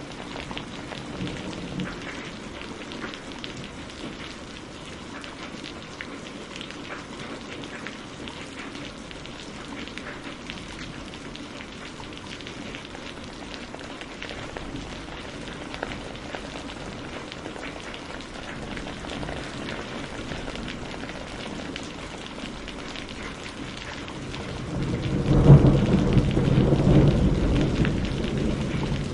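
Steady rain with a crackling wood fire: an even hiss with scattered sharp pops. Near the end a roll of thunder swells in, the loudest sound, and slowly eases off.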